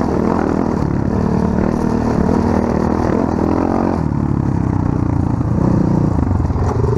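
Off-road motorcycle engine running and revving, its pitch rising and falling as the throttle changes, with a shift in the engine note about four seconds in.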